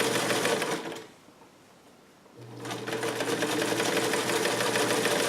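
Vintage Sovereign electric sewing machine stitching fabric with a fine, fast ticking. It stops about a second in, then starts again after a second or so and runs steadily.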